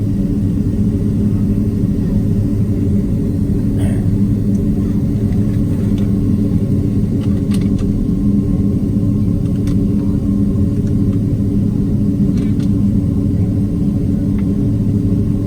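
Steady low rumble and hum inside the cabin of a Boeing 767-300 on the ground after landing, with the engines at idle while it taxis. A few faint clicks sound over it.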